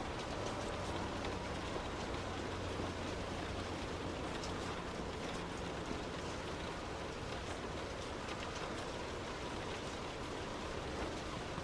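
Heavy rain on a car as it drives, with scattered ticks of drops over a steady rush of noise and a low hum from the engine and tyres underneath.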